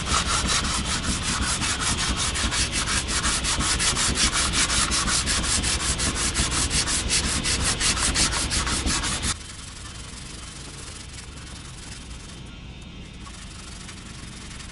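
Rusty anchor windlass turning while material is held against it to scrub off rust and grime, giving a loud, rapid, rhythmic rasping scrape. The scrape cuts off suddenly about nine seconds in, leaving a much quieter steady noise.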